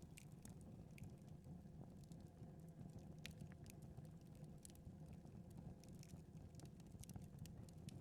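Faint crackling of a wood fire in a fireplace: scattered, irregular sharp snaps and pops over a low, steady hum.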